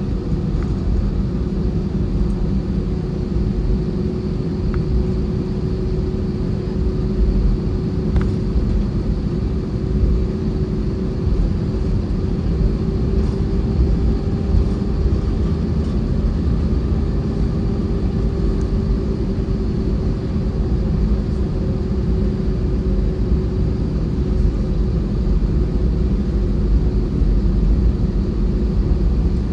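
Airbus A320-232's IAE V2500 jet engines heard from inside the passenger cabin: a loud, steady rumble with a constant hum over it.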